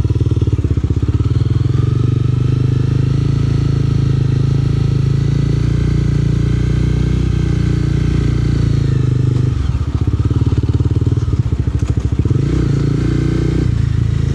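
Yamaha R7's parallel-twin engine and SC-Project exhaust running at a steady cruise. About ten seconds in the note drops and turns ragged as the throttle is eased, then steadies again.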